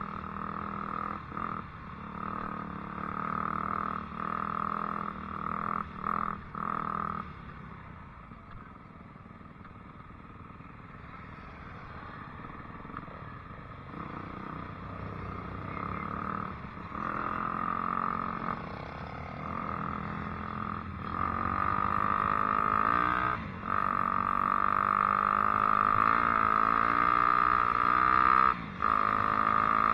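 Dirt bike engine running under way, rising and falling in pitch with the throttle; it drops back for a few seconds about a third of the way in, then builds louder with rising revs toward the end.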